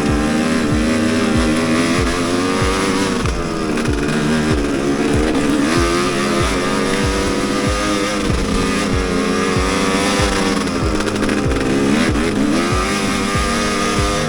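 Enduro motorcycle engine revving up and down repeatedly, heard under background music with a steady beat.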